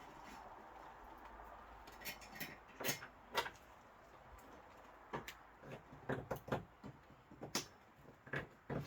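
Scattered clicks and knocks of a rigid rear window panel being handled and pushed into its mounting slots, a tight fit. A few come together about two seconds in, and a busier run follows in the second half.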